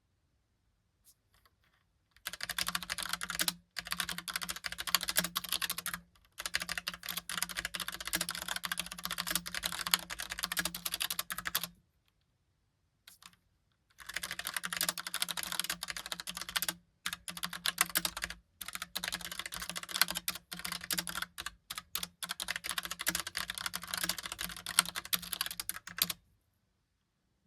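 Typing on a Logitech Pop Keys mechanical keyboard with typewriter-style keys: dense runs of rapid key clicks. The typing starts about two seconds in, breaks off for about two seconds midway, and stops shortly before the end.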